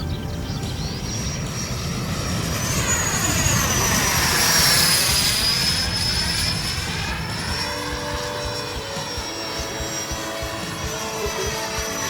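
80 mm electric ducted fan of a radio-controlled Kawasaki T-4 jet model whining in flight as it makes a pass. The whine rises in pitch about three seconds in, is loudest around four to five seconds in, then drops in pitch as it moves away.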